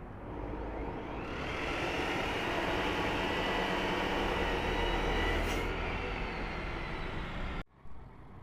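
A power tool running hard on steel, building up over the first second, holding steady with a faint high whine, then cutting off suddenly near the end.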